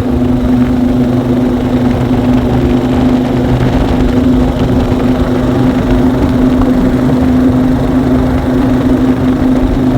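A small engine running steadily, a loud even drone with a constant low hum.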